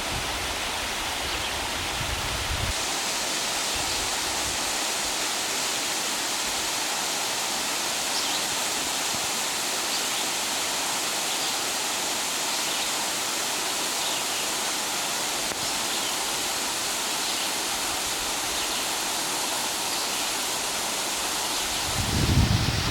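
Waterfall on a mountain creek rushing steadily. About three seconds in, its sound turns brighter and thinner, as if from a different spot.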